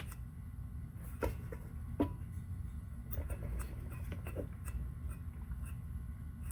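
Hunter ceiling fan motor running with a low hum and a light tick about twice a second, as a fin on the spinning motor catches the wire running down inside the motor each time it comes around. This rubbing is the cause of the fan's long-standing noise. Two sharper clicks come about one and two seconds in.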